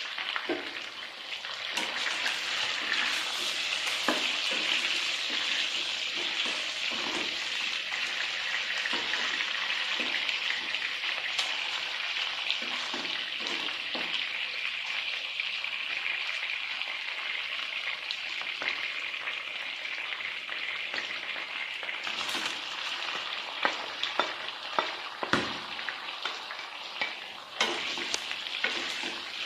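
Food sizzling steadily in a hot frying pan as it is stirred. Several sharp knocks of a utensil against the pan come near the end.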